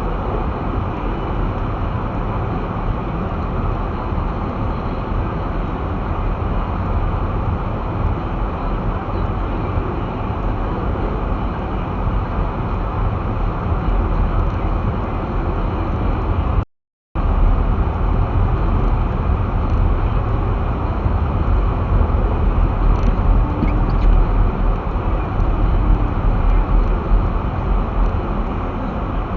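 All-wheel-drive car driving on snow-covered streets, heard from inside the cabin: a steady low rumble of tyres and engine. The sound cuts out completely for about half a second roughly two-thirds of the way through.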